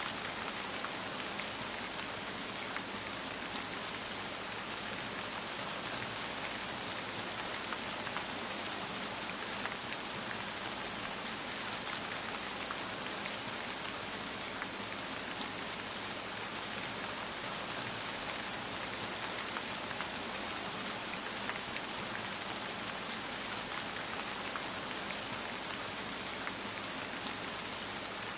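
Steady rain falling on a surface, an even hiss with many small drop ticks and no change in intensity.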